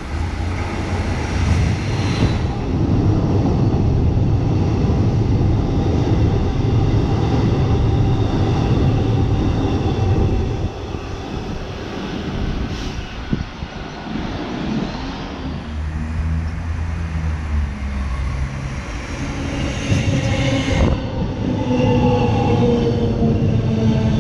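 X'Trapolis electric suburban trains running through the station: a steady rumble of wheels on track, quieter in the middle, with a falling whine near the end as a train slows.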